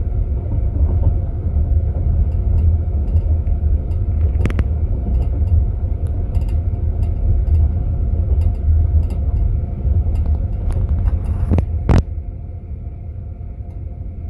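Passenger train running, heard from inside a compartment car: a steady low rumble of wheels on rail with faint ticking. Two sharp knocks come about four and twelve seconds in, and after the second the rumble gets quieter.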